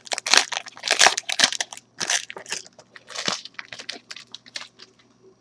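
Wrapper of a trading-card pack crinkling and tearing as it is opened by hand: a quick run of irregular crackles that thins out near the end.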